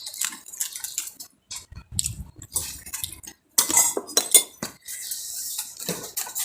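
Kitchen utensils clinking and knocking irregularly against a dish while a spicy seafood salad is mixed, with a couple of brief pauses.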